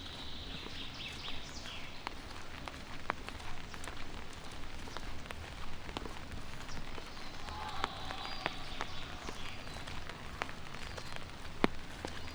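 Light rain falling on city pavement and surfaces, a steady patter with scattered sharper drips and taps.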